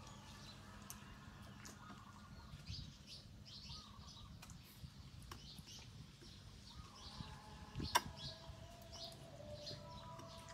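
Small birds chirping on and off in short high bursts, over a faint low hum, with one sharp click about eight seconds in.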